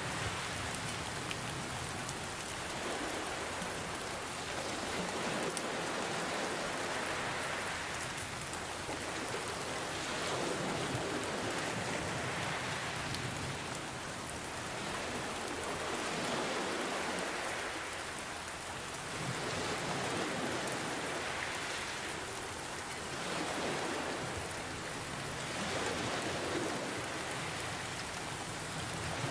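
Steady rain pattering, mixed with gentle ocean waves that swell and wash in every few seconds.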